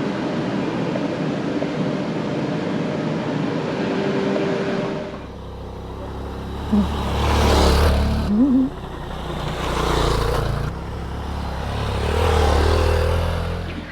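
Motor vehicle noise: a steady engine hum for about five seconds, then an abrupt change to a deep rumble that swells and fades several times, like vehicles going by.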